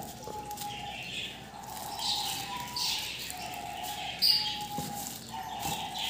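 Birds calling in the background: a string of held, steady notes with higher chirps between them. Soft crinkling of a plastic bag can be heard as bread is handled.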